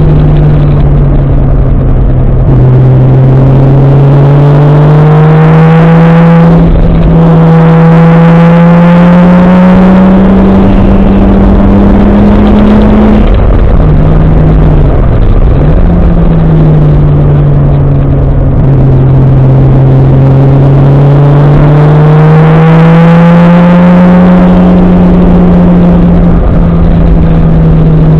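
Toyota 1JZ-GTE turbocharged inline-six in a Nissan 240SX, loud and pulling hard: its pitch climbs, drops sharply on each gear change about 2.5, 7 and 13 seconds in, then climbs again, easing off and picking up in the second half.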